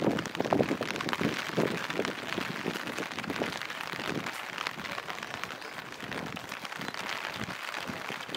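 Steady rain falling on hard surfaces, with a hiss and an irregular patter of heavier drops that is strongest in the first few seconds.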